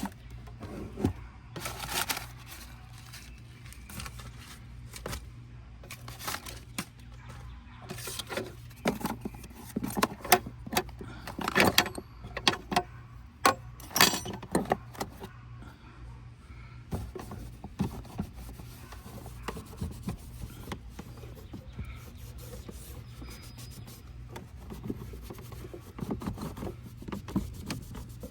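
Irregular clicks, knocks and rattles of hands working on a car's interior, densest in the middle, over a steady low hum.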